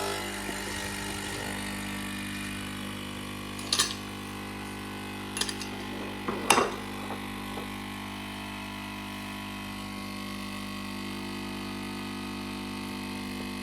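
Nespresso Pixie capsule machine's pump running steadily as it brews a lungo: a steady buzzing hum that the owners call quite noisy. Three short sharp knocks come in about 4, 5.5 and 6.5 seconds in.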